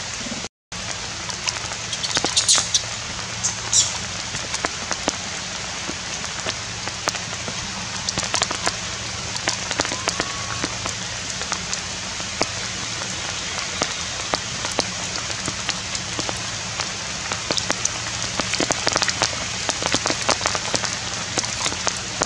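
Steady rain falling in forest, an even hiss with many separate drops close by; the sound drops out briefly about half a second in.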